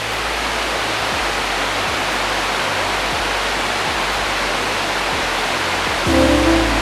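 Waterfall: a loud, steady rush of falling water. Music comes in near the end.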